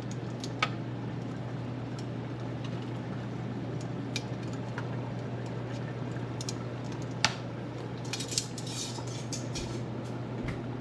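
Scattered clinks and knocks of metal cookware against a pot, the sharpest about seven seconds in and a quick run of lighter clinks soon after, over a steady low hum.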